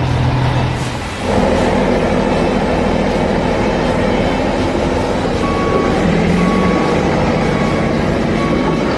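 Heavy truck engine running loudly, its sound growing fuller about a second in. From about halfway, a backup alarm beeps at a steady pace, under a second apart.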